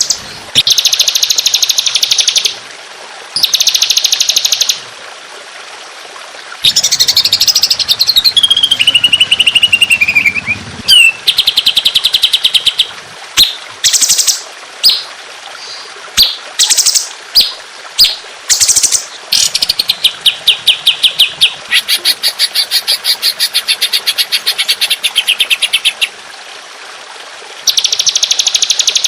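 Recorded songbird song used as a bird-training 'masteran': bursts of very rapid repeated high notes, each a second or two long, separated by short gaps. About a quarter of the way in, a long whistled phrase slides downward.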